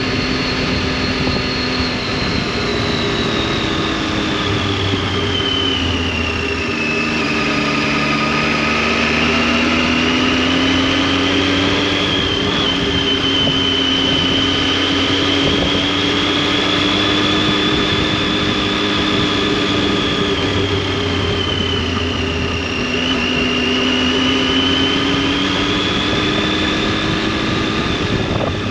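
Triumph Tiger 800's three-cylinder engine and exhaust running on the move. The engine note falls and rises gently a few times as the throttle is eased and opened again, with no sharp revs or gear changes standing out.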